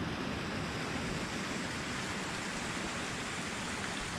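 Steady rush of water from a small waterfall pouring into the river.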